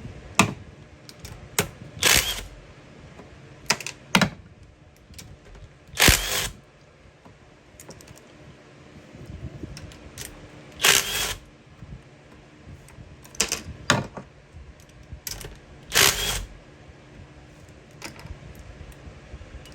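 Hand tools working the 12 mm cylinder-head nuts loose on a Kawasaki 1100 two-stroke jet ski engine. Scattered metal clicks and knocks, with four louder, longer noises about every four to five seconds.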